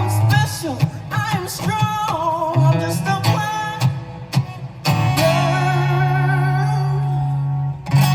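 A singer's voice with vibrato over guitar accompaniment, closing the song on one long held note from about five seconds in, with a final strummed guitar chord near the end.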